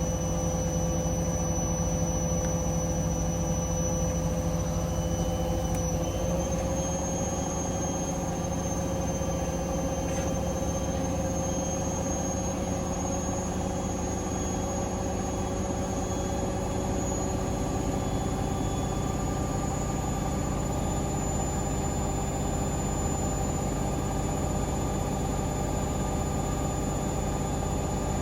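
Hoover Link washing machine spinning at 1400 rpm on a spin-only cycle, the drum and motor running steadily with a high whine that rises slightly about six seconds in.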